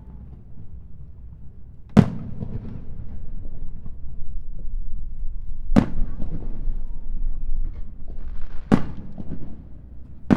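Aerial fireworks shells bursting in sharp booms about two, six and nine seconds in and again at the very end, each followed by a low rolling rumble and scattered crackle.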